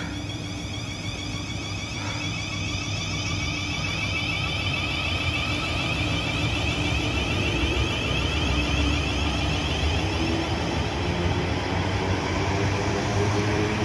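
Train approaching on the line, its running noise with a steady low hum growing slowly louder.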